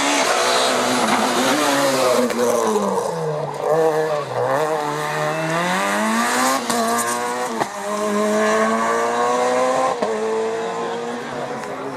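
Rally car engine slowing into a corner, its pitch falling for about four seconds, then accelerating hard away. The pitch climbs, with quick gear changes about six and a half and seven and a half seconds in.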